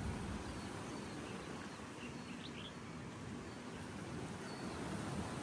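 Outdoor ambience: a steady background hiss with a few faint, short bird chirps, a small cluster of them about halfway through.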